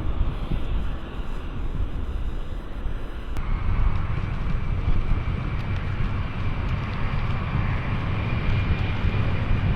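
Jet airliner engines at take-off: a steady low rumble with wind buffeting the microphone. About a third of the way in, the sound cuts abruptly to jet noise with a steady high whine over the rumble.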